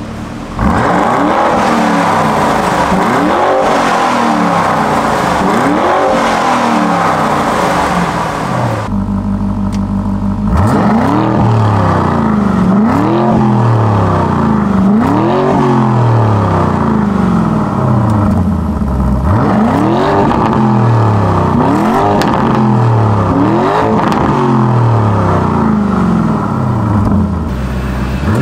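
Lamborghini Urus twin-turbo V8 revved again and again from idle, about one blip every two seconds, each rising and falling in pitch. About nine seconds in it settles to a steady idle for a moment, then the blips resume through the Fi Exhaust valvetronic catback with its valves closed (Strada mode).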